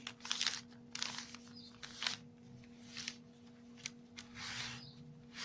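A sheet of paper being folded and creased by hand: a string of short rustles and crinkles, with a longer rub a little past the middle.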